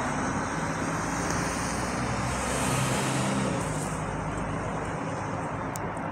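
Road traffic: steady vehicle noise with a car passing, swelling and fading around the middle.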